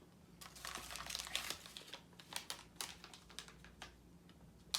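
Plastic candy packaging crinkling as it is handled, densely for the first couple of seconds, then in scattered crackles.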